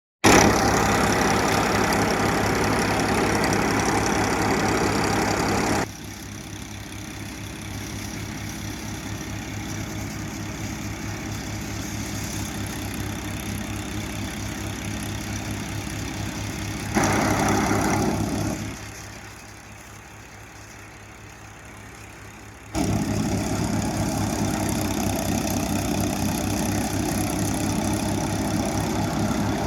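Powertrac tractor's diesel engine running steadily with an even low pulse, driving a paddy thresher. The sound drops sharply quieter about six seconds in and comes back to full level a few seconds before the end, with a brief louder surge in between.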